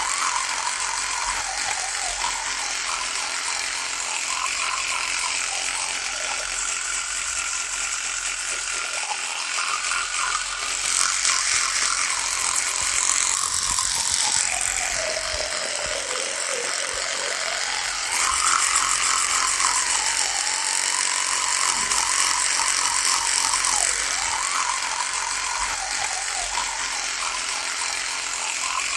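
Electric toothbrush running with a continuous buzz; around the middle its pitch sinks lower and then climbs back up.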